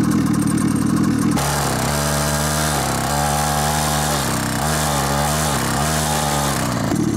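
Mini pocket bike's small engine running under the rider as the rear wheel churns in sand: harsher and noisier for the first second and a half, then a steady low drone that dips in pitch a few times.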